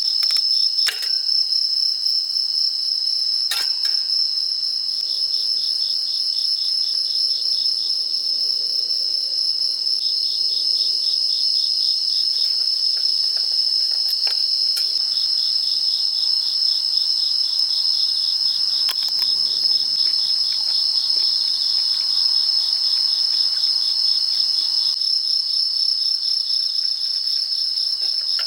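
A chorus of crickets chirping steadily in a rapid, even pulse, with a few sharp clicks now and then.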